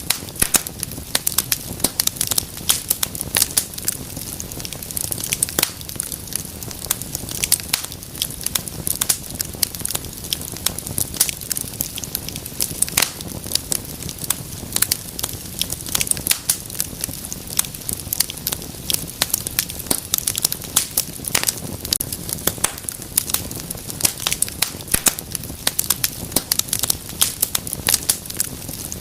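Wood fire in a fireplace crackling, with frequent irregular sharp pops and snaps over a low steady rumble of burning.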